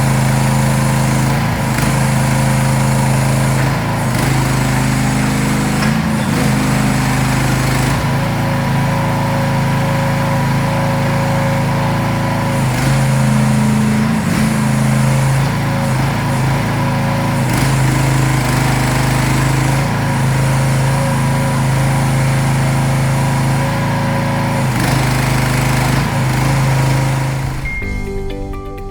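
Small single-cylinder-class gasoline engine of a mini excavator running at a steady speed, with slight changes in tone every few seconds as the load shifts. It stops near the end.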